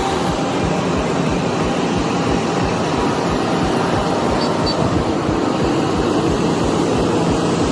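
Vehicle engine running steadily, with a low, even pulse about four to five times a second.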